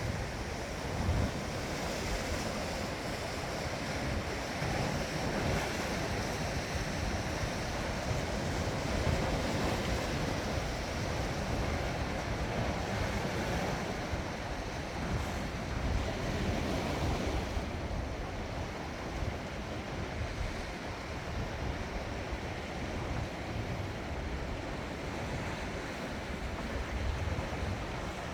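Sea waves washing in steadily, with gusts of wind buffeting the microphone.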